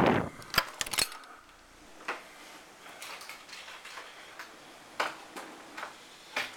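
A loud burst of noise dies away at the very start. Then come irregular light clicks and knocks, a second or more apart, as a hotel room door and its lock are handled.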